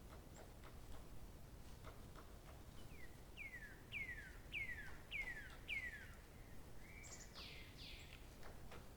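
A songbird singing: a series of about six clear whistled notes, each sliding down in pitch, coming at an even pace and growing louder, followed near the end by a short level note and two fuller, curved notes. A faint steady outdoor background noise runs beneath.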